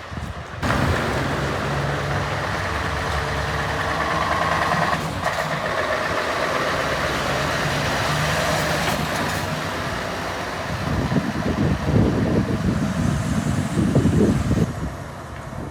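Heavy truck engine running steadily; it becomes an uneven, gusty low rumble in the second half.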